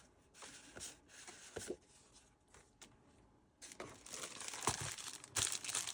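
Scrapbook papers and their packaging being handled: a few light rustles and taps, then continuous crinkling from a little past halfway.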